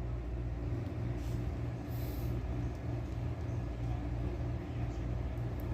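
A steady low machine hum with no speech over it.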